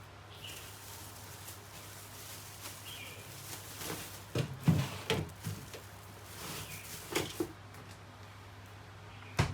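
A handful of short knocks and clunks, bunched together about halfway through and again near the end, over a low steady hum, with a few faint short chirps.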